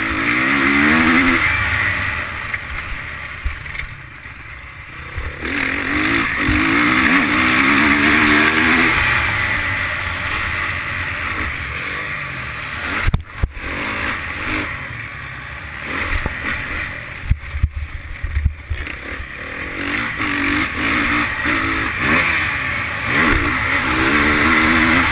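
Motocross bike engine heard on board, revving up and falling back repeatedly as the rider works the throttle and gears, with the throttle shut off briefly about four seconds in. Several sharp knocks come midway.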